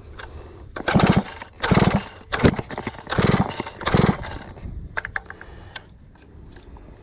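Stihl 051 two-stroke chainsaw being pulled over on its recoil starter five times in quick succession, the engine spinning without firing because the spark plug is out, to clear water from the cylinder through the plug hole. A few light clicks follow.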